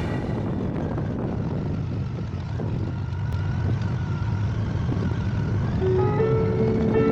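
Motorcycle running on the road: a steady low rumble of engine and road noise. Music comes in near the end.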